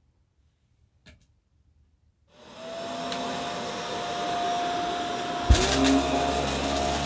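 Upright vacuum cleaner switched on: after a faint click, the motor spins up to a steady whine about two seconds in. About five and a half seconds in, a thump comes and a deeper, louder hum joins the motor.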